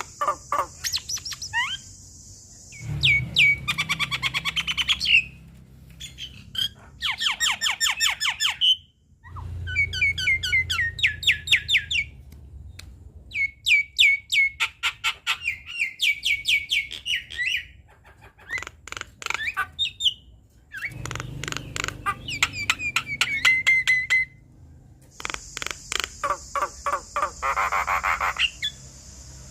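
Javan myna (jalak kebo) singing energetically: phrases of rapid clicking, chattering notes and whistles, each a couple of seconds long, separated by short breaks.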